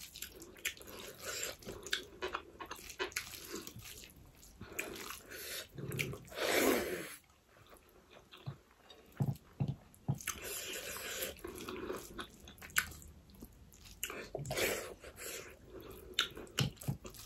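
Close-up eating sounds: chewing and wet lip smacks while fingers mix rice and curry on a plate, heard as many short clicks. About six seconds in comes one louder mouth sound lasting around a second.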